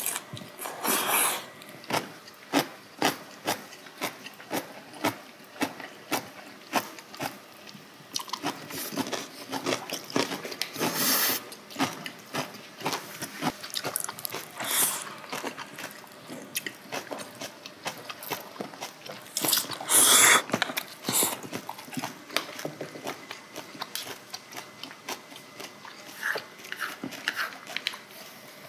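Close-miked mukbang eating sounds: steady wet chewing clicks and lip smacks of two people eating glass noodles, kimchi and fried dishes. There is a louder, longer slurp of noodles about a third of the way in and another about two thirds in.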